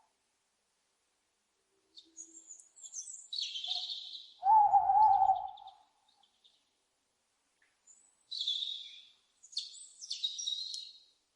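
Owl calling: one loud, wavering hoot about halfway through, with shorter, higher-pitched hoarse calls before and after it and silent gaps between.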